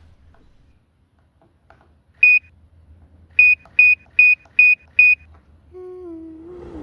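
Electronic beeps at one high pitch: a single short beep, then five quick beeps in a row about a second later. Near the end, a low electronic tone starts and steps down in pitch.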